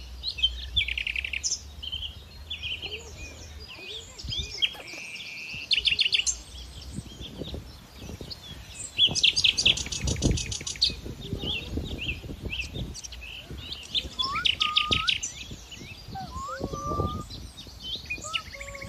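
Many birds chirping and calling together, with short chirps and rapid buzzy trills repeating throughout and a few lower whistled notes near the end.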